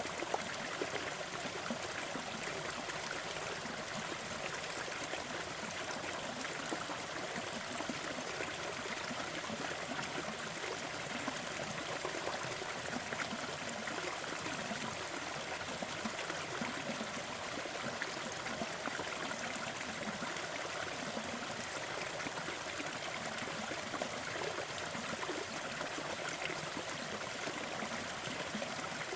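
Waterfall: water falling and splashing continuously in a steady, even rush.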